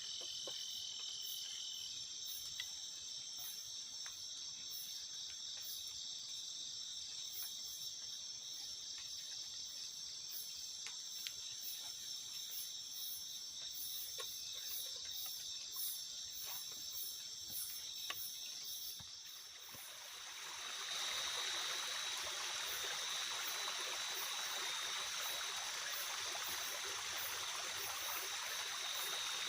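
Night insects trilling steadily in several high, even tones, with a fast pulsing chirp above them. About two-thirds of the way through, a steady rush of water comes in and carries on under the insects.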